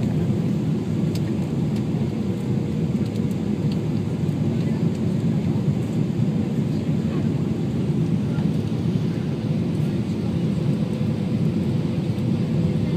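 Steady cabin rumble inside a Boeing 777-300ER airliner: the drone of its GE90 engines and the rush of airflow past the fuselage, heard from a window seat, with a faint steady hum running through it.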